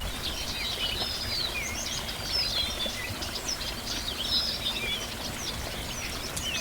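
Several small birds chirping and twittering, their short calls overlapping, over a steady low background noise.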